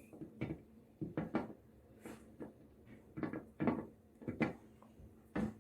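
Toy animal figures being handled and swapped: a string of light, irregular clicks and knocks.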